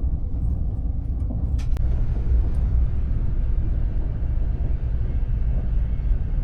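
Passenger train running, a steady low rumble heard from inside the carriage, with two light clicks about a second and a half in.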